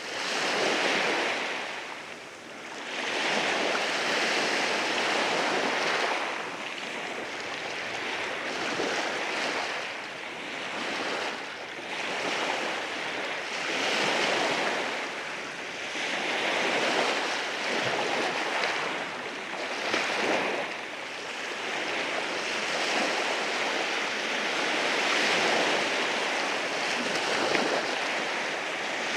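Sea waves rolling in and washing over rocks on the shore, a continuous hiss of surf that swells and eases every few seconds.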